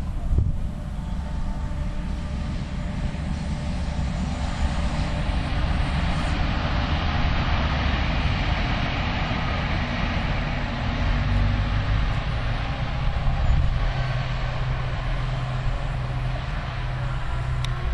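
Diesel railcar train running past at speed: a steady engine drone with a rushing wheel-and-rail noise that swells in the middle.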